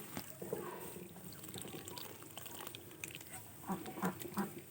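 Water being poured and mixed into duck feed, faint, with a few small clicks and short low sounds near the end.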